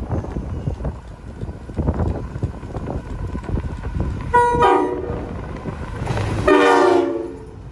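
A train sounds its horn twice while passing: a short blast about four seconds in, then a longer, louder one about two seconds later, the pitch sagging slightly at the end of each. A rumbling running noise from the train comes before the horn.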